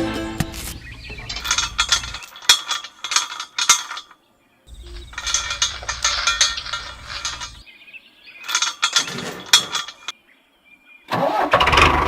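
Small engine of a homemade mini tractor being started: several short bursts of cranking and sputtering with irregular knocks, broken by abrupt silences, then running steadily near the end.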